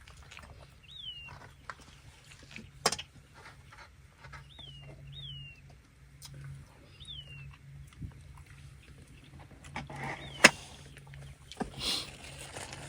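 Short, high animal chirps, each rising and then falling, repeated every second or two. Two sharp clicks and a brief rustle come in between them, the louder click about ten seconds in.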